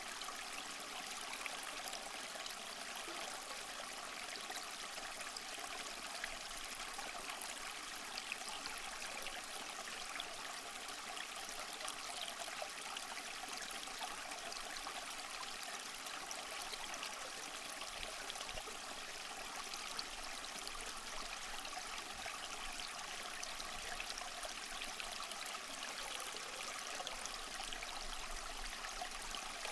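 Small mossy waterfall: water trickling and splashing steadily over rocks, an even bright rush with small splashes throughout.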